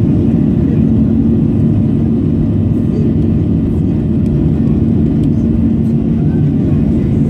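Airplane's steady low drone, with a constant hum and no rise or fall in level, as heard inside the cabin in flight.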